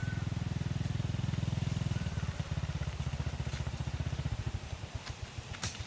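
Engine running with a steady low putter that weakens about two seconds in, then slows into uneven, spaced-out beats near the end. A sharp click comes just before the end.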